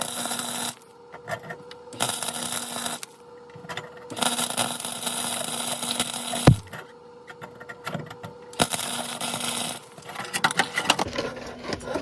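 Welder laying a bead around an exhaust pipe joint, crackling and buzzing in short runs of one to two seconds that stop and start about four times. There is a sharp knock about halfway through, and scattered clicks near the end.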